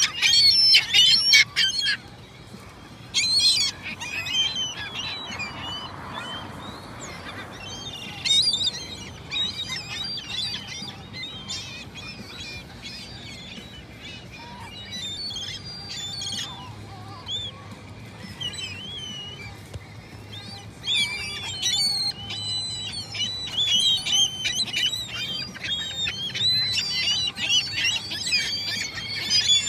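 Gulls calling, many short high cries in groups: a cluster in the first two seconds, more around three and eight seconds in, then a long run of overlapping calls over the last nine seconds, with fainter calls between.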